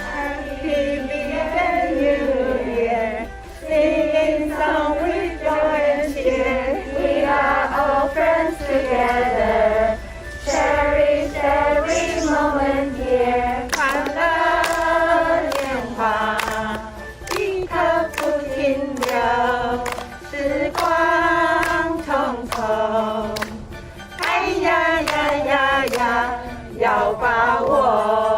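A group of voices singing a song together, choir-like, with hand claps falling in among the phrases.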